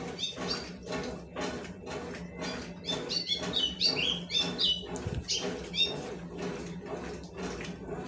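Consul 12 kg washing machine agitating a load of towels: water and wet cloth swish in an even rhythm over a steady motor hum. High chirping sounds come in about three to six seconds in.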